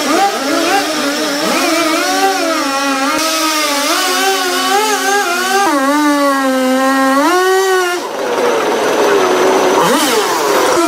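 Chainsaw engine running at high revs, its pitch wavering up and down throughout. About eight seconds in it turns rougher and noisier for a couple of seconds before settling back into a steady tone.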